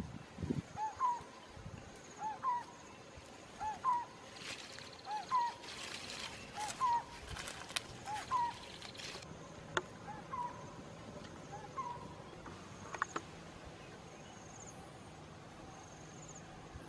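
A bird calling over and over, a short two-note call about every second and a half that stops about three-quarters of the way through, with a faint high chirping repeating behind it. A few seconds of crackle and rustle come about halfway, and there are two sharp clicks later on.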